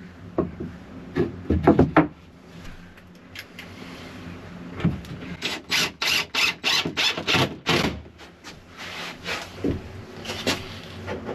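Wooden panels and boards being handled and worked by hand: a few knocks, then a quick run of about eight scraping strokes, about three a second, and a few softer scuffs.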